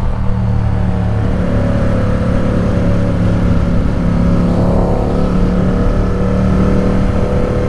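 Ducati Supersport 950 S's 937 cc L-twin engine running under way at a steady cruise, its note rising slightly in pitch over the first few seconds and then holding steady.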